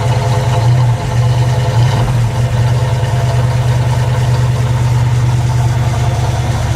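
Parked car's engine idling steadily, its speed wavering briefly about one to two seconds in.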